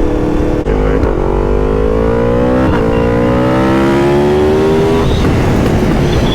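Yamaha MT-10's crossplane inline-four running through a full titanium Akrapovic exhaust under acceleration. The note breaks briefly just over half a second in, then climbs steadily in pitch as the bike pulls for about four seconds, and the throttle is shut about five seconds in.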